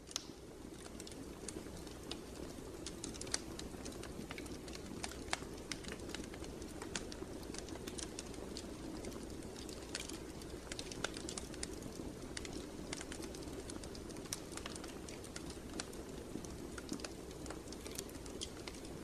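Wood fire burning in a fireplace: irregular sharp crackles and pops, several a second, over a steady low rush of flame.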